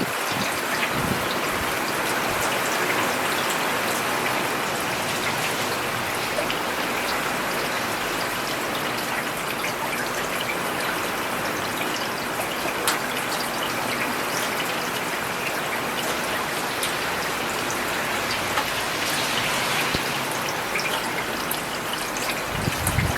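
Steady rain falling on a road surface: an even hiss with many small drop splashes scattered through it. A brief low rumble comes just after the start and again near the end.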